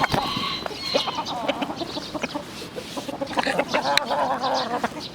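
Several chickens clucking, their short calls overlapping, with a few sharp clicks among them.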